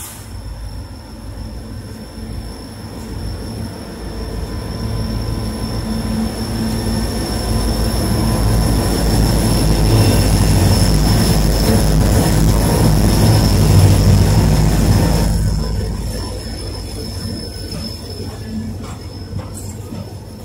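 A freight train hauled by two diesel locomotives passing close by. The engines' low rumble grows louder to a peak and drops off sharply about three quarters of the way through as they go past, leaving the quieter rolling of loaded flatcars. A steady high-pitched wheel squeal runs under it.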